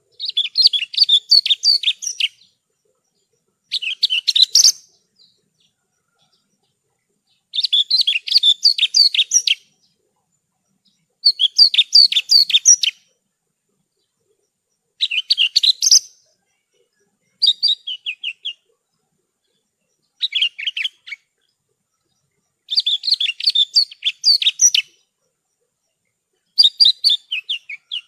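Javan bushlark (branjangan) singing: about nine phrases of rapid, high chirping notes, each a second or two long, separated by short silent pauses.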